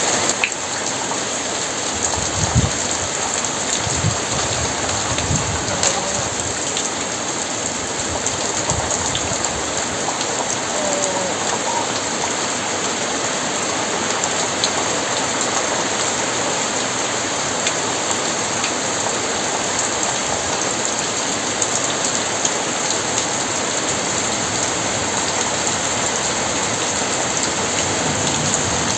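Very heavy rain falling steadily, with a few brief low rumbles of thunder in the first several seconds.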